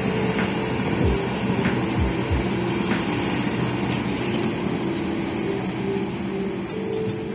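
Heavy construction machine's diesel engine running steadily, with a few dull knocks in the first two and a half seconds and light clicks after them.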